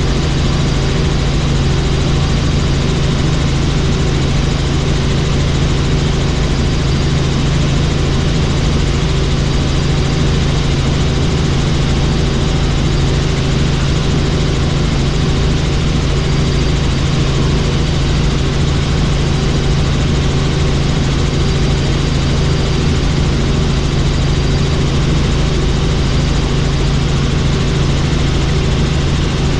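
Helicopter in flight: steady, loud engine and rotor noise with a constant low hum.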